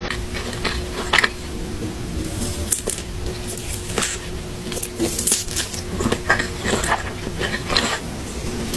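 Close-miked eating sounds: irregular bites and chewing with crisp crackles and wet squishes, a few per second, over a faint steady tone.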